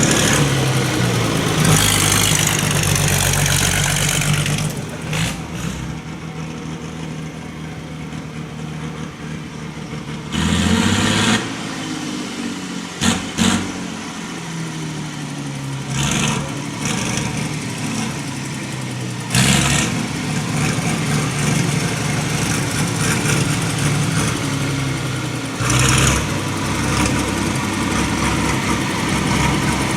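Tractor engines running, their steady note broken by several short loud rises in engine sound. The first of these comes about eleven seconds in and the last near twenty-six seconds.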